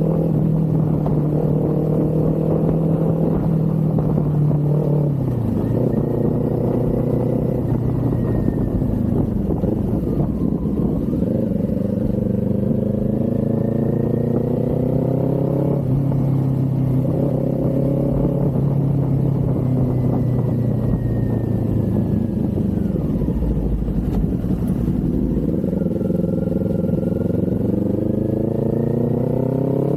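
Kawasaki Z400's parallel-twin engine running under way: it holds a steady pitch, drops away and picks up again several times, and rises steadily near the end as the bike accelerates.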